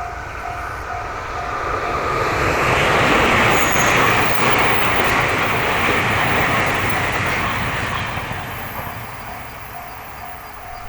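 A railroad crossing's warning bell ringing in quick repeated dings, then drowned out by a train passing the crossing, loudest about three to five seconds in. The bell is heard again as the train noise fades near the end.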